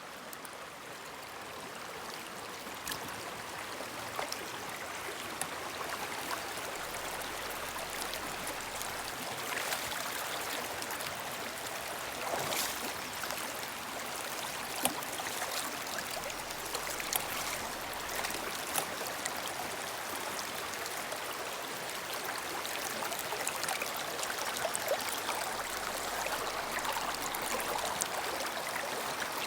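A shallow brook flowing and trickling over rocks, a steady rushing water sound with a few faint clicks.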